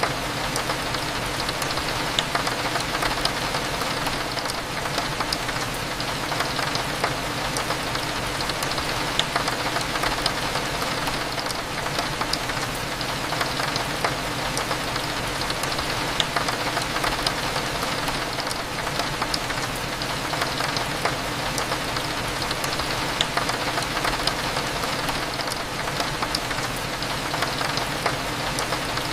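Steady rain on a window, with many small drop ticks scattered through it, over a low steady cafe hum.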